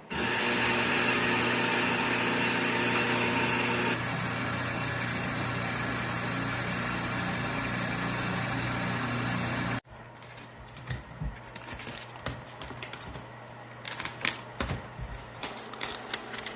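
Coffee roaster running steadily, its motor and fan giving a hum under a broad hiss. The sound changes a little about four seconds in and cuts off abruptly near ten seconds, followed by faint scattered clicks and knocks.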